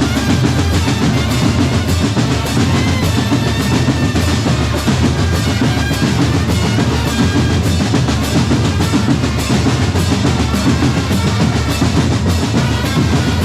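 Drum corps playing a fast, continuous rhythm on bass drums and snare drums, with rolls, loud and without a pause.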